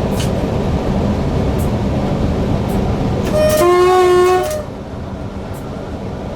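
Newag Impuls EN63 electric multiple unit running along the line, heard from the driver's cab, sounding its horn once about three and a half seconds in for a little over a second: a short higher note, a longer lower note, then the higher note again. The running noise is quieter after the horn.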